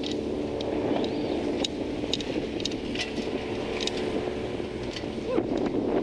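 Brand-new outboard motor running steadily at low throttle while being broken in, with wind noise, and irregular short sharp ticks over it.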